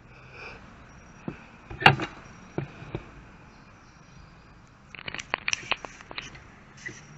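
Clicks and knocks of hands working on a small trim saw with a screwdriver: one sharp knock about two seconds in, a few lighter clicks, then a quick run of clicks and rattles near the end.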